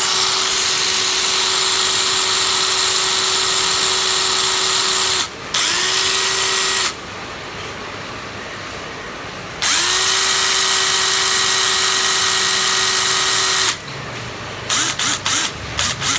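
Makita 12V cordless drill running free at a steady whine. It stops briefly about five seconds in and spins back up, stops again for nearly three seconds, then runs for another four seconds. Near the end comes a quick series of short clicks.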